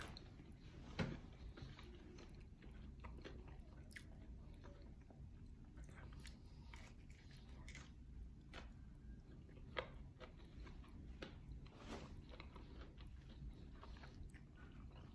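Faint mouth sounds of a person biting and chewing a fried banana fritter (maruya): soft, scattered clicks, with one sharper click about a second in.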